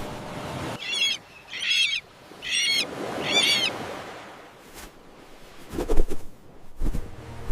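Common terns giving four harsh, wavering calls in quick succession, followed by a few low thumps.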